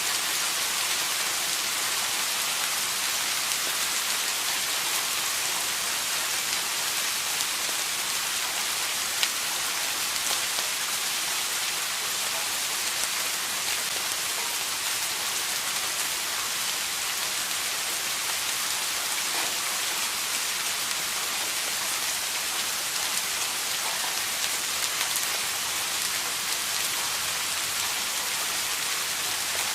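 Steady rain falling and pattering on a surface, an even hiss with occasional individual drop ticks.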